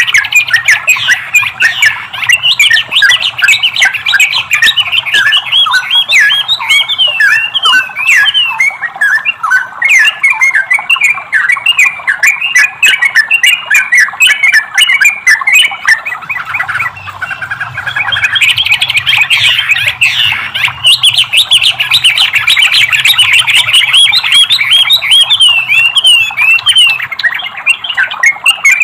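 Yellow-vented bulbul (trucukan) singing a fast, unbroken run of chirping, chattering notes, easing briefly a little past halfway before picking up again.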